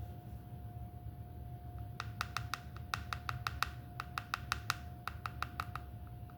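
A quick run of sharp clicks, roughly four or five a second, starting about two seconds in and stopping near the end, over a steady faint hum.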